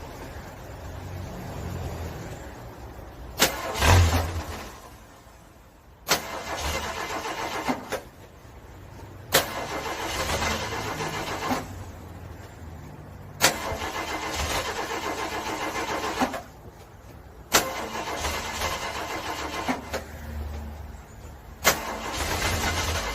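Car engine cranked over and over in short tries of about two seconds each, each try starting with a sharp click. The engine does not catch and run, a hard cold start in freezing weather.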